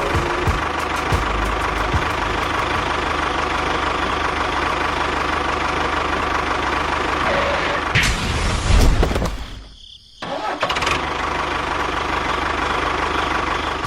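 Small engine running steadily, with a louder surge about nine seconds in and a brief dip about a second later before it carries on.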